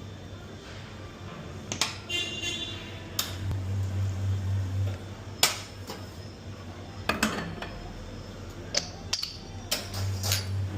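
Iberital espresso machine and cups being handled: sharp clinks and knocks of metal and china, one ringing clink about two seconds in, with a low steady hum from the machine switching on for a couple of seconds midway and again near the end.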